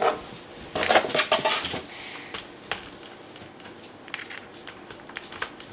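Handling noises of a small plastic gadget and its packaging: clattering, rustling and scattered clicks, loudest in a cluster about a second in.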